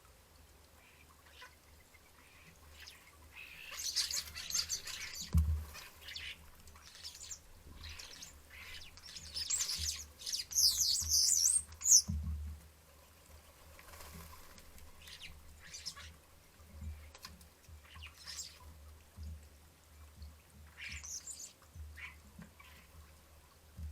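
Starlings squabbling, with bursts of harsh chattering and screeching calls. The calling is heaviest about four seconds in and again around ten to twelve seconds in, quieter chirps come and go between, and a couple of short low thumps sound under the loudest bursts.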